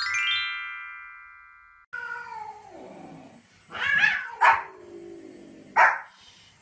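A bright electronic chime rings out and fades away over about two seconds. Then a cat gives a drawn-out yowl that falls in pitch. A small spitz-type dog barks sharply twice, about halfway through and again near the end.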